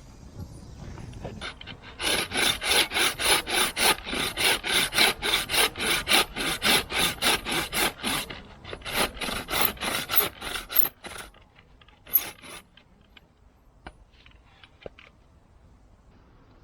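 Hand saw cutting wood in quick back-and-forth strokes, about three a second. The strokes start about two seconds in, pause briefly, stop a little before the end, and are followed by one short final pass.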